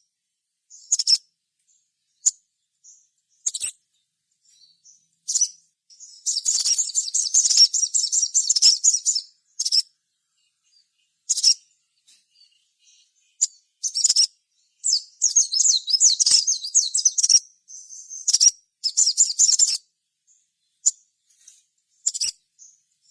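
Little spiderhunter (sogok ontong) calling: high, rapid chattering in runs of a few seconds, with short single calls in between.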